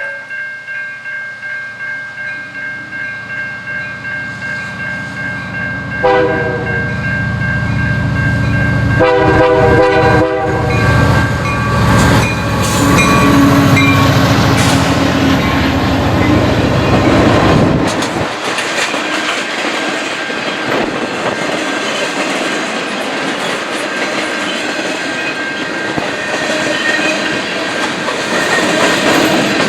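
Level-crossing bells ringing in a steady pulse as a freight train approaches. Its diesel locomotive sounds its horn in two blasts about 6 and 9 seconds in, rumbles past, and then the freight cars roll by with a steady clatter of wheels over the rails.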